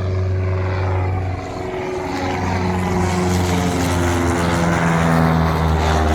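Small single-engine propeller plane climbing out after takeoff and passing overhead, its engine and propeller drone steady, growing louder toward a peak about five seconds in as its pitch shifts downward.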